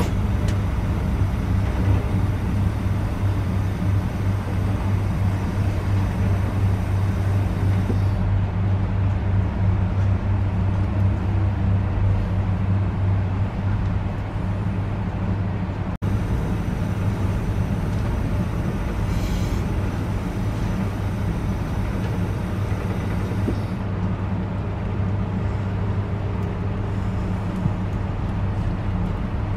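Steady low hum and rumble of a train in motion, with a constant droning tone under the running noise. The sound cuts out for an instant about halfway, then carries on the same.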